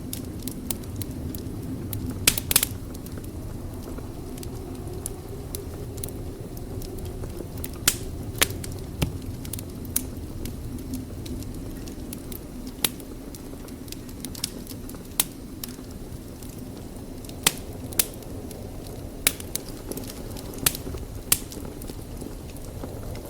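Wood fire in a fireplace crackling: irregular sharp pops and snaps, a cluster of them about two seconds in, over a steady low rush of the flames.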